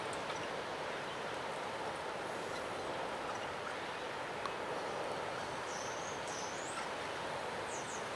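Steady roar of rough water or surf in the background, with a few short, high-pitched bird chirps in the second half.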